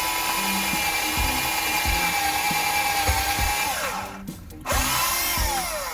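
Electric drill boring into pallet wood, its motor whine sagging in pitch under load. It stops briefly about four seconds in, then spins up again and winds down near the end. The bit is said to be dull.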